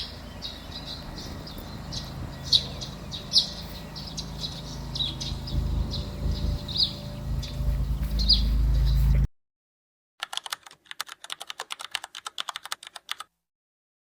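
Short high chirps repeat every second or so over a low rumble that grows louder, then cut off abruptly at about nine seconds. After a moment of silence comes a fast run of sharp clicks, like keyboard typing, for about three seconds.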